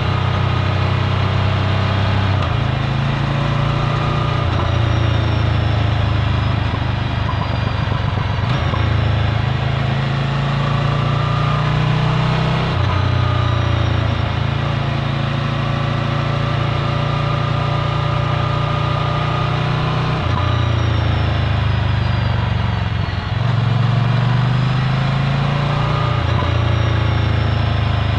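Ducati Scrambler Full Throttle's L-twin engine running through a Termignoni exhaust while riding, heard from onboard. The engine note changes in steps several times.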